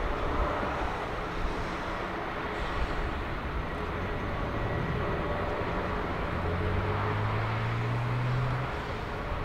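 Jet engine noise from a Boeing 767-300ER airliner: a steady rushing rumble. A low hum joins about six seconds in, rises slightly and cuts off near the end.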